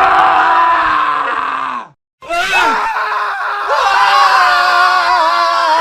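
Men screaming: a long scream that falls in pitch and cuts off abruptly just before two seconds in, then after a brief silence another long scream.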